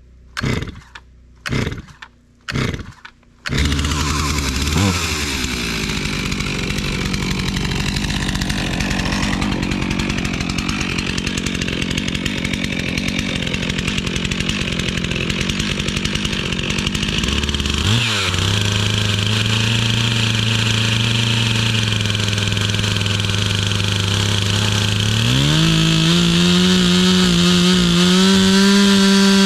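Chainsaw being pull-started, with a few short tugs before it catches about three and a half seconds in, then running loud and uneven while cutting wood to a marked line. About 18 s in it drops to a steady idle, and near the end it revs back up to a steady high speed.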